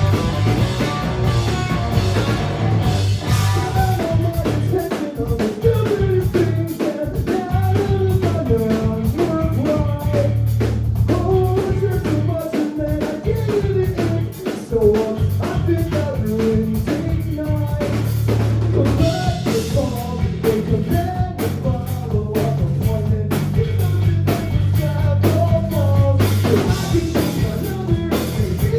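Live rock band playing: drum kit, electric guitar and bass, with sung vocals.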